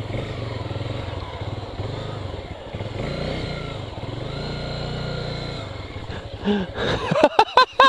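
Motorcycle engine running at low speed, its note rising briefly in the middle and easing off after, with short sharp sounds near the end.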